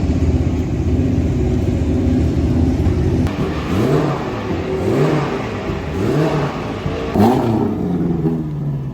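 Can-Am race car engine running steadily, then blipped up and down about five times in quick succession from about a third of the way in.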